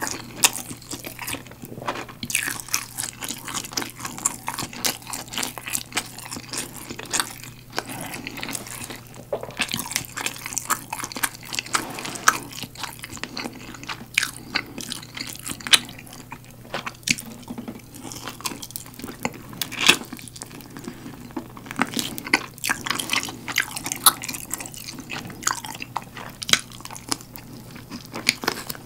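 Close-miked eating of galbi-sauce-glazed roasted chicken drumsticks (BHC Galbileo): biting, tearing and chewing the meat, heard as many short irregular clicks and smacks throughout.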